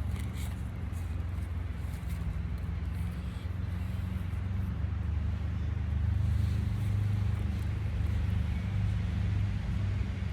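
Steady low rumble of road traffic, swelling a little about six seconds in.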